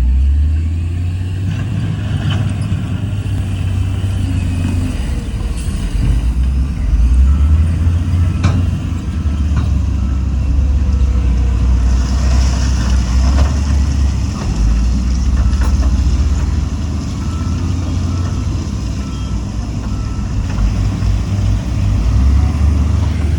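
Heavy earthmoving machinery's diesel engine running with a deep, steady rumble, its pitch shifting a few times, with a few faint knocks.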